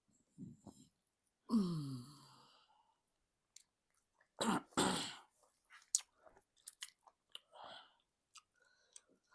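Close-miked eating sounds of semolina swallow and egusi soup: wet mouth clicks and smacks. About one and a half seconds in comes a short voiced sound falling in pitch, and around four and a half seconds a loud breathy burst.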